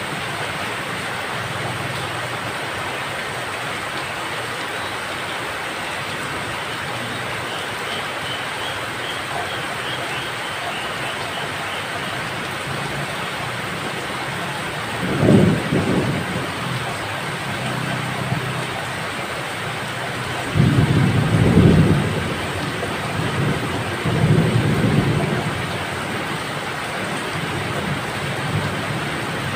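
Steady rain falling, with low rolls of thunder about halfway through and twice more soon after.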